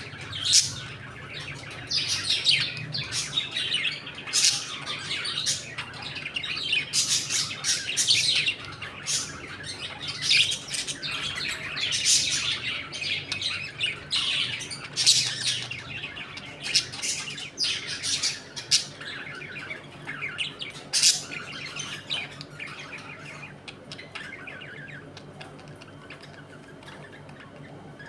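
A flock of budgerigars chattering, with many quick chirps and occasional squawks. The calls are dense at first and thin out near the end.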